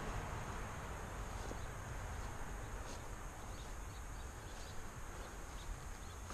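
A small bird chirping quickly and faintly, a run of short high chirps through the second half, over a steady low rumble.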